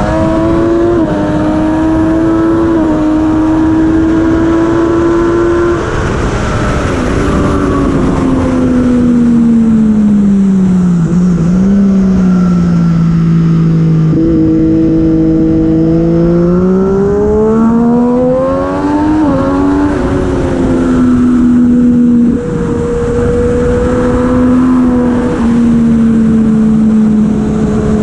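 Racing superbike engine at speed, its pitch sinking from about six seconds in as the bike slows for a corner, with a quick blip near eleven seconds. It stays low for a few seconds, then climbs again from about sixteen seconds as it accelerates and runs high to the end, over a steady rush of wind noise.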